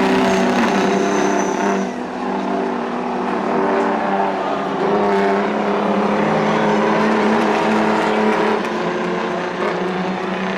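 Several semi-truck diesel engines racing together, running hard under load with the pitch rising and falling as they throttle on and off.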